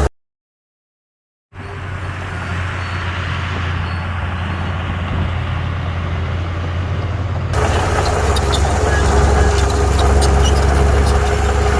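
A second or so of dead silence from an edit cut, then the diesel engine of heavy earthmoving machinery running steadily and growing louder, with a steady whine joining about seven seconds in.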